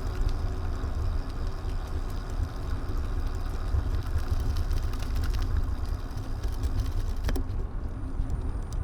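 Steady low wind rumble on an action camera's microphone while riding, with road noise underneath and a single sharp click about seven seconds in.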